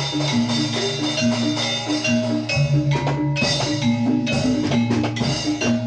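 Live Javanese gamelan music for a jathilan dance: struck metal mallet instruments play a short repeating melody over drums and other percussion strikes.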